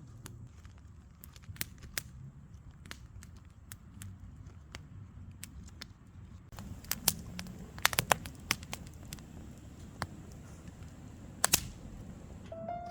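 Wood fire crackling: irregular sharp pops and snaps over a low steady rumble, most frequent about seven to eight seconds in and with one loud pop near the end.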